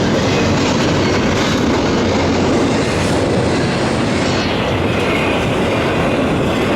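Fast train passing at speed: a steady rush of wheel-on-rail noise with faint rhythmic clatter, its upper hiss falling away a little past halfway as the train moves off.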